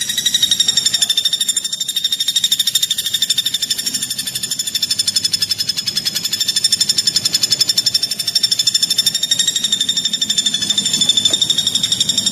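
Cricket (jangkrik) chirping in a continuous rapid trill, a fast train of high, clear pulses many times a second that holds steady throughout.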